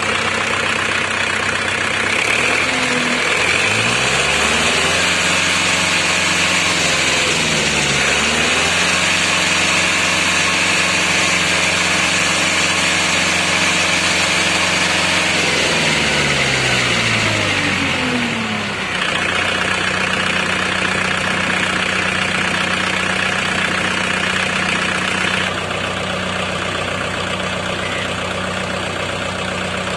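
Tractor diesel engine revved up from idle a couple of seconds in and held at high speed, with a brief dip and recovery partway through. It then drops back to a steady idle about two-thirds of the way in.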